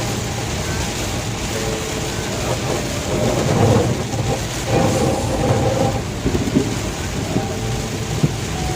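Heavy rain pelting a moving car, heard from inside the cabin as a steady loud hiss. A low rumble swells up twice in the middle, and there are a couple of sharp ticks near the end.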